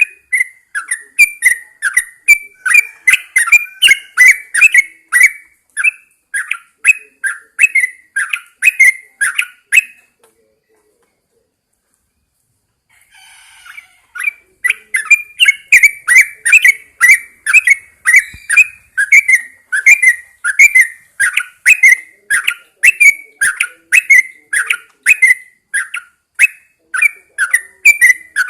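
Yellow-vented bulbul singing a long run of short bubbly notes, about three a second. About ten seconds in the song breaks off into a few seconds of silence, then picks up again.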